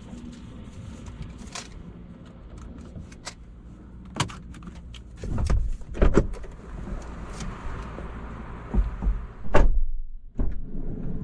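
Automatic car wash machinery working around a car: a steady low rumble with scattered knocks and clicks, and a louder thump about nine and a half seconds in.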